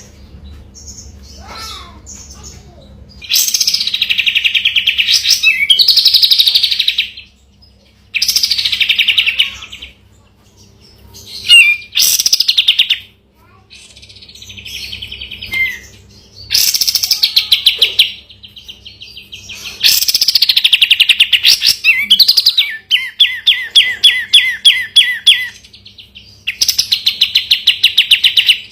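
Kapas tembak singing at full voice in repeated bursts of rapid, trilled song, each burst a second or more long with short pauses between. Near the middle comes a run of short, evenly spaced notes, about four a second. A faint steady low hum lies underneath.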